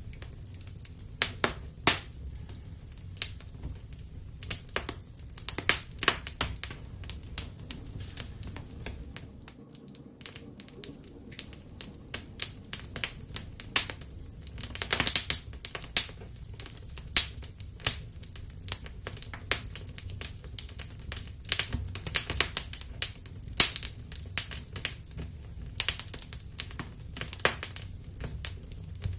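Wood fire in a fireplace crackling and popping: irregular sharp pops, now sparse and now in quick clusters, over a low steady rumble of the flames.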